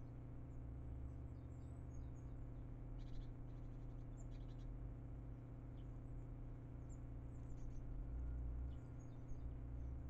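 Faint, scattered high chirps of small birds, a little cluster of them a few seconds in, over a steady low hum.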